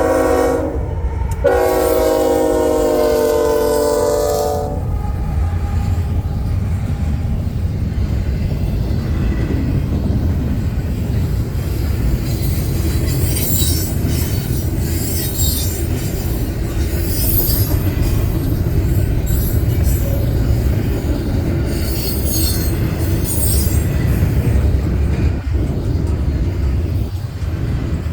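Union Pacific freight locomotive horn: the end of one blast, then a chord-like blast of about three seconds. After that comes the steady rumble of a double-stack freight train rolling past, with brief high-pitched wheel squeals now and then.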